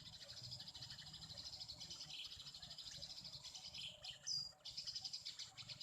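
Small birds chirping in a fast, continuous chatter, with one sharper, higher call about four seconds in.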